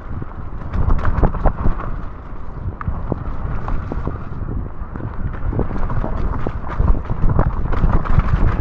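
Mountain bike descending a wet, muddy trail: wind on the microphone and a continuous low rumble from the tyres, with frequent knocks and rattles as the bike goes over roots and rocks.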